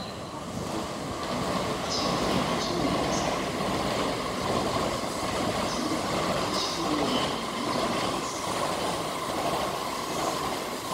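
Shinkansen train passing at speed on the adjacent track. It is a steady, dense rush of wheel and air noise that swells about a second in and holds, with a steady whine running through it.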